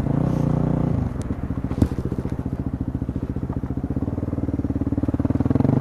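Yamaha WR250 dirt bike's single-cylinder four-stroke engine settling from a fast idle into a steady, pulsing idle about a second in, with one sharp click near two seconds.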